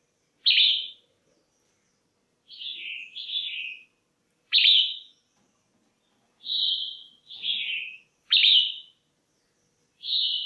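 Female red-whiskered bulbul calling: about eight short, clear calls, some coming in quick pairs, with silent gaps between them.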